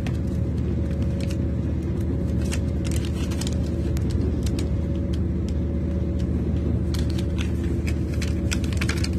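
Class 221 Super Voyager diesel-electric train running at speed, heard from inside the passenger car: a steady low rumble with a faint steady whine above it, and scattered light clicks and rattles.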